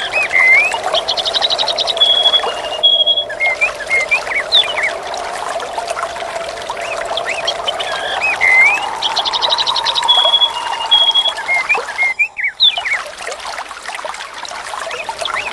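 Steady trickling water with birds chirping over it: swooping calls throughout and a quick trill followed by a few short whistled notes, heard twice.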